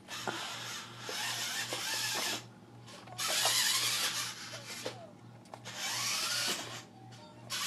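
Electric motor and gearbox of a remote-controlled Power Wheels ride-on toy truck whirring in three bursts, starting and stopping as it is driven.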